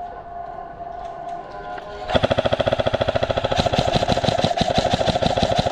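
Airsoft electric rifle, a Krytac Trident MKII CRB-M, firing a long full-auto burst that starts about two seconds in: a fast, even rattle of the gearbox cycling and BBs firing.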